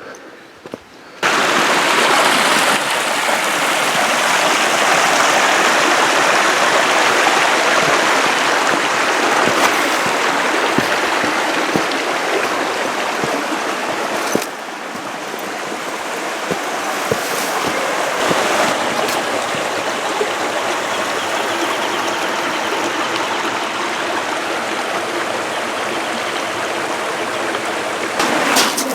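Creek water rushing steadily. It starts abruptly about a second in and dips briefly about halfway through.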